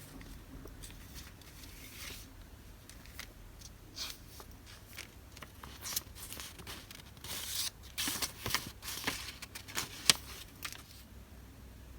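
Paper goods and their plastic wrapping rustling and crinkling as they are handled, with scattered sharp clicks. It grows busier about seven seconds in, with the loudest click about ten seconds in.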